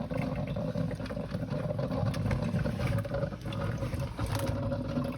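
Drip coffee maker brewing: a steady low rumble with a constant hum and light crackling.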